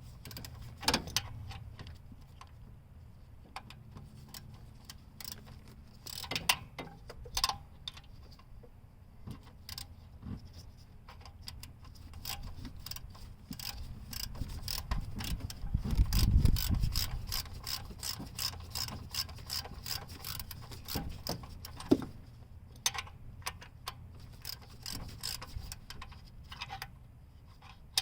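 Hand ratchet clicking in quick, uneven runs as an engine-mount bolt is backed out, with a few louder knocks of metal on metal. A low rumble swells and fades about halfway through.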